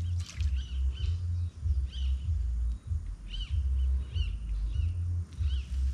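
Birds giving short chirping calls, about seven scattered through a few seconds, over a low rumble that comes and goes.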